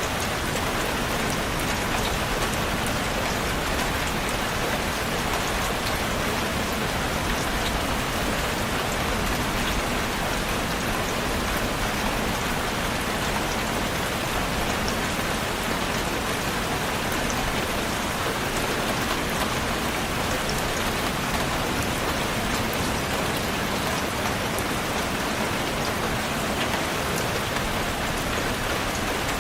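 Steady rain falling on a surface, an even patter with many small drop ticks throughout.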